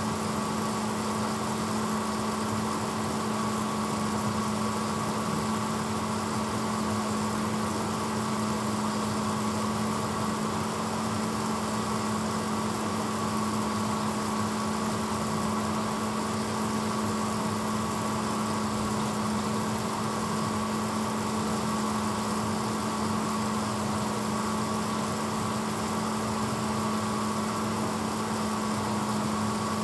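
1986 Hotpoint Potwasher dishwasher running steadily, a constant motor hum with a hiss behind it.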